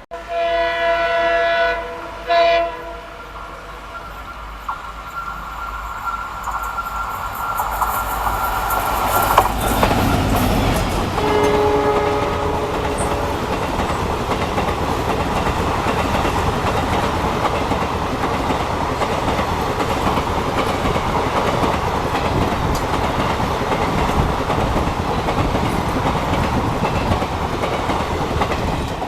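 Locomotive horn sounding a long blast and then a short one, followed by a train coming up and passing at speed with a steady rumble and clickety-clack of wheels on rail joints. Another short horn blast sounds about twelve seconds in.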